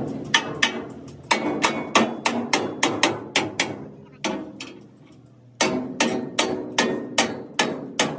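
Hammer blows on the metal of a truck body, in quick runs of about three to four strikes a second, with a pause about four seconds in before the hammering resumes.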